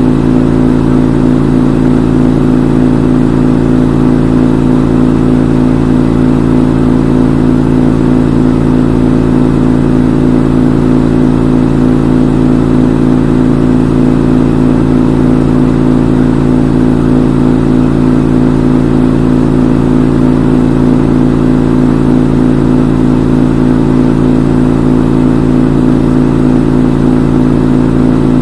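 Front-load washing machine on its spin cycle, the drum spinning at a steady high speed with a loud, even motor hum and whine.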